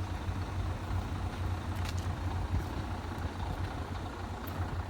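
A diesel truck engine idling with a steady low rumble.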